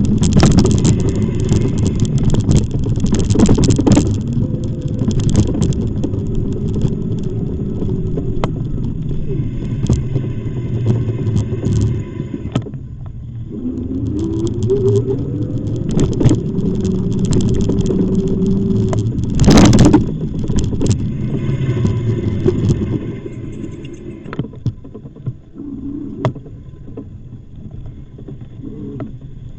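Continuous low rumble of riding on an e-bike, with a short loud rush about twenty seconds in, then quieter riding noise near the end.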